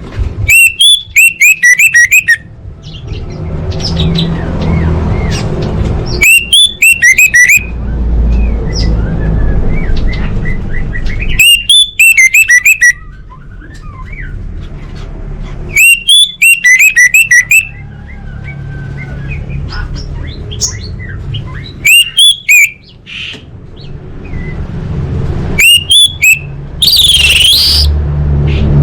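Female orange-headed thrush calling: six loud bursts of rapid high notes, each lasting about a second and a half, coming every four to six seconds over a low background rumble. This is the female's call that is used to prompt a silent male to start singing. Near the end there is a different, sliding high sound.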